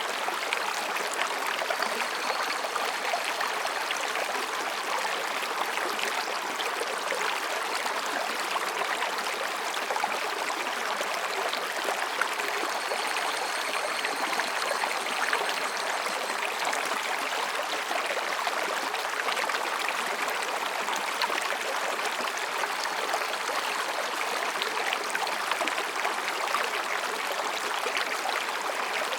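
Mountain stream babbling and rushing over rocks, a steady, even flow of water.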